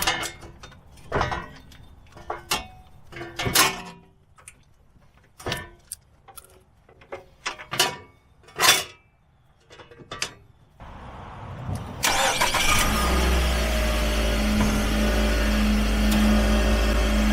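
Sharp metallic clinks and knocks of hand tools working on a car's front wheel hub, then about twelve seconds in a loud motor starts up and runs with a steady hum.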